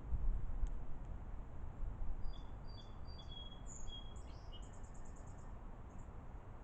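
Small songbird calling: a few short, high whistled notes, then a quick run of very high notes about four and a half seconds in, over a steady low background rumble.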